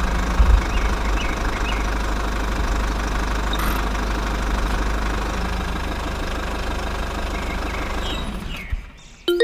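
Small engine running steadily, the power unit of a DIY miniature tractor and water pump; it cuts off near the end.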